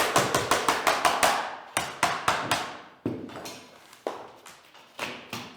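Vinyl click-lock floor planks being knocked into place: a quick run of sharp taps, about six a second, then slower single knocks spaced out toward the end.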